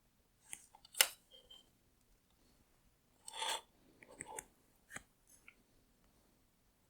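Plastic parts of a disassembled LED tail light being handled on a bench: a sharp click about a second in, a short scrape of plastic rubbing a little after three seconds, then a few lighter clicks.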